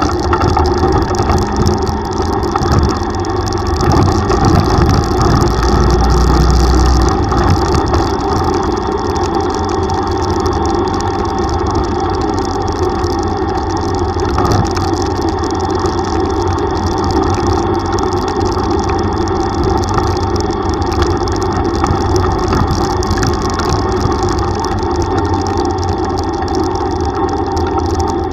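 Yamaha YTX125 single-cylinder motorcycle engine running steadily while riding, mixed with wind and road noise on the microphone. There is a heavier low rumble for the first several seconds.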